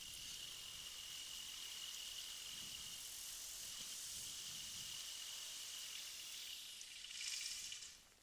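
Faint steady high-pitched hiss with a thin, constant high whine running through it. The hiss swells briefly near the end, then fades out.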